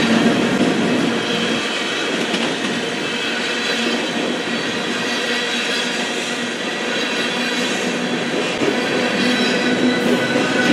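Freight cars of a CN manifest train, covered hoppers and then tank cars, rolling steadily past on the rails: a continuous rumble of wheels on track with thin, steady whining tones over it.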